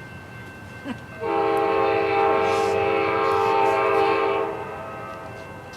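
Train horn sounding one long, steady blast of about three seconds, a chord of several tones. It starts about a second in and fades out near the end.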